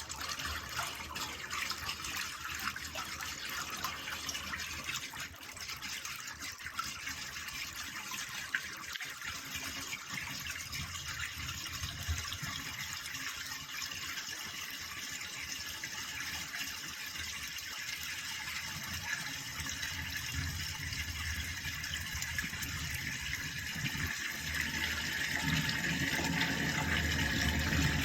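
Sewer water rushing and splashing out of a drain pipe, uneven at first, with a brief louder spurt about nine seconds in. From about 25 seconds in, the flow builds louder and steadier as the clog clears and full pressure returns.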